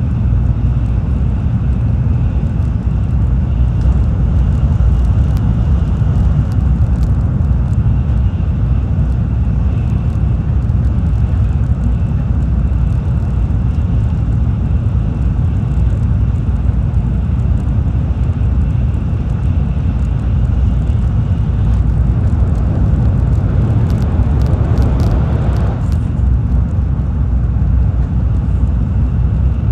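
Tokaido Shinkansen bullet train running at speed, heard inside the passenger cabin: a steady deep rumble of wheels on rail, with a faint high whine. About three-quarters of the way through, a brighter rushing noise swells for a few seconds, then cuts off suddenly.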